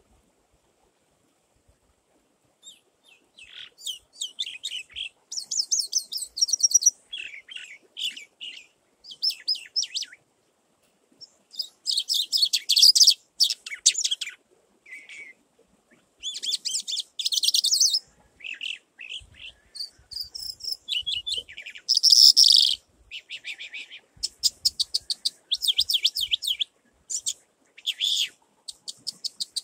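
Small birds chirping and twittering in quick, high-pitched runs of notes, starting about three seconds in and going on with short pauses.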